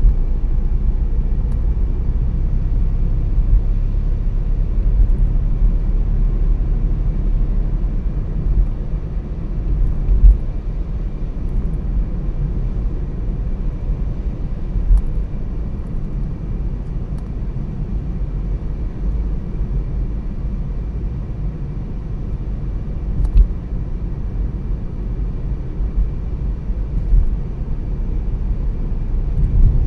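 A car driving at steady speed: a constant low rumble of road and engine noise, with a few short thumps along the way.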